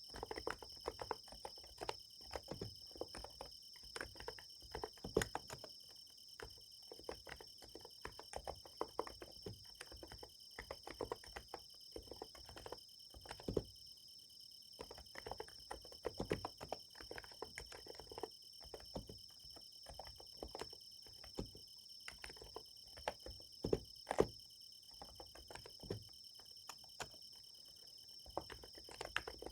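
Typing on a Niz Plum x108 electrostatic capacitive keyboard: irregular runs of soft keystrokes with a few short pauses. Under it runs a steady high chirring of crickets.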